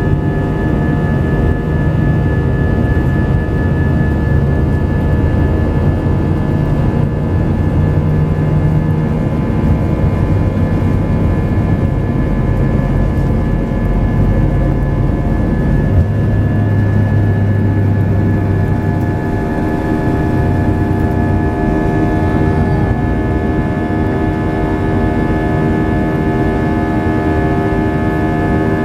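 Jet airliner engines running steadily, with several steady whining tones over a low drone that shifts pitch about halfway through.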